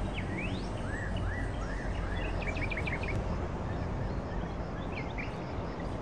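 Small birds chirping over steady outdoor background noise: a few rising chirps, a run of short arching notes, a quick trill about halfway through, and more chirps near the end.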